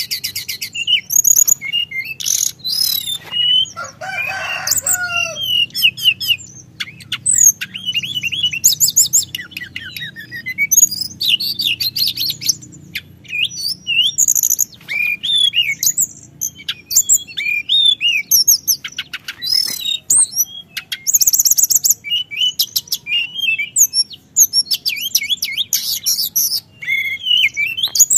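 A teledekan gunung songbird singing without pause, in rapid high chirps, trills and whistled phrases, with a lower warbled phrase about four seconds in.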